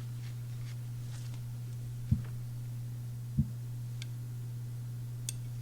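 Steady low hum, with two short soft knocks, one about two seconds in and one about three and a half seconds in, and a couple of faint ticks near the end.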